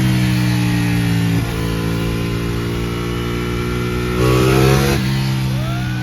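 Ducati Panigale 899's Superquadro V-twin engine under way at high revs. It holds steady, changes pitch suddenly about a second and a half in, then gets a louder burst of throttle for about a second, which drops off near the end.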